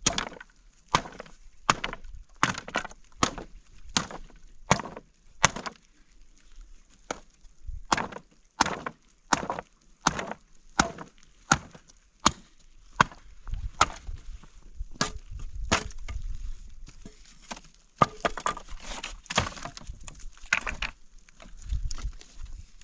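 Wood being chopped: a long run of sharp blows, roughly one every three-quarters of a second, with a few short pauses.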